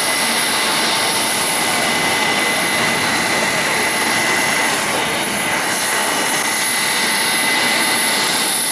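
Kawasaki C-1 transport's twin JT8D turbofan engines running steadily, a loud rushing noise with a constant high whine.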